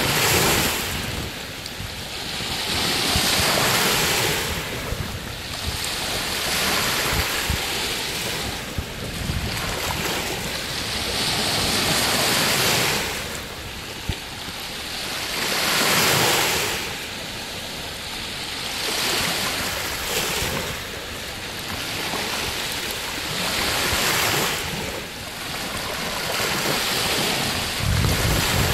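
Lake Huron waves washing onto the shore, the rush of water swelling and falling every few seconds, with wind rumbling on the microphone.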